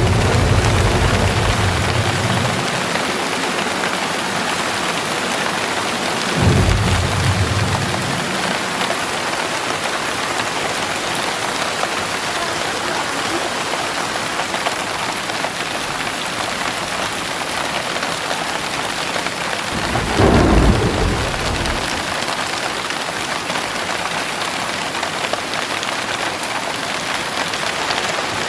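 Heavy rain falling steadily in a thunderstorm. A thunder rumble dies away in the first couple of seconds, and two more short peals of thunder come about six seconds in and again about twenty seconds in.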